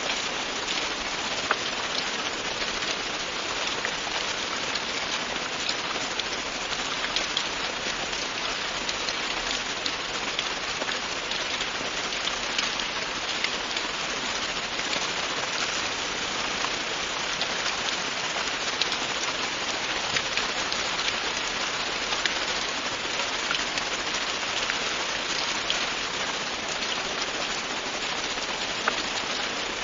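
Steady heavy rain falling on a hard surface: a constant hiss with many small drop ticks scattered through it.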